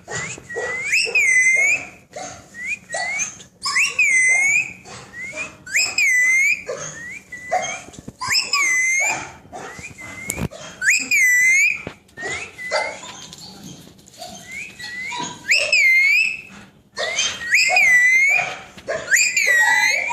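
Pet parrot whistling: a loud call that rises and falls in pitch, repeated about once a second, with short lower chirps in between and a brief pause about two-thirds of the way through.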